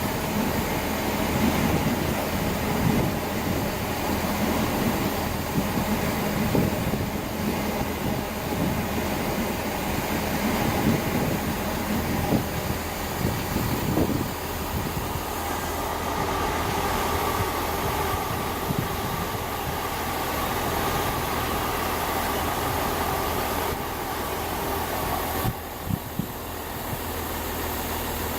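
A train running through the station: a steady rumble, joined about halfway in by a steady whine that cuts off near the end.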